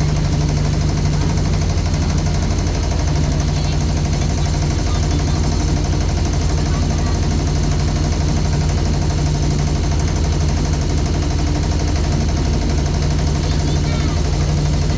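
A small boat engine running steadily at a constant speed, heard from on board.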